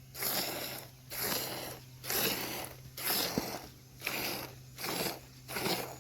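Rhythmic scraping or rubbing strokes, about one a second, each a short noisy rasp, over a faint steady low hum.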